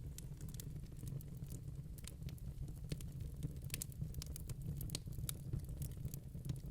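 Wood fire burning in a fireplace: a steady low rumble of flame with frequent irregular crackles and pops from the burning logs.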